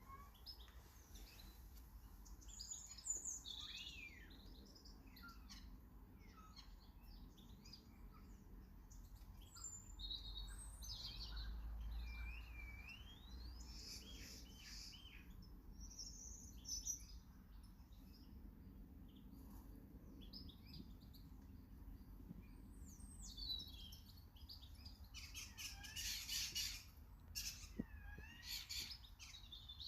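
Small garden birds chirping and singing, several calls and whistles overlapping, busiest near the end.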